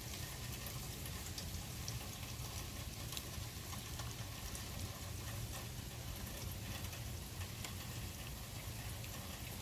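Rain pattering steadily, many small drop ticks over a constant low rumble.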